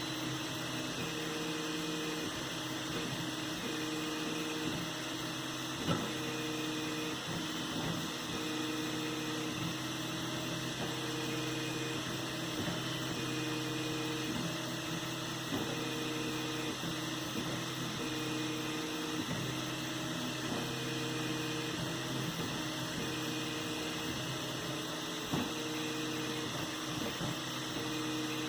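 3D printer running a print: a steady motor hum with a higher stepper-motor tone that switches on and off every second or so as the moves change, and a few faint clicks.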